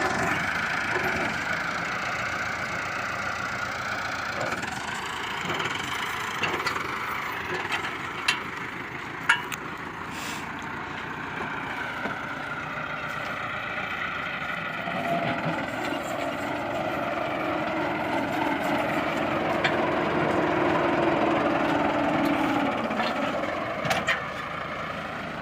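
Heavy farm machinery engines running steadily under load, with a couple of sharp knocks about eight and nine seconds in; a deeper engine tone joins about fifteen seconds in and the noise swells slightly before easing near the end.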